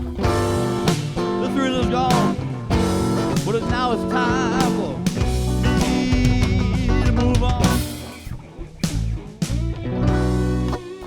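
A blues band playing an instrumental passage: a lead guitar plays bent, wavering notes over a drum kit. The playing drops quieter about eight seconds in.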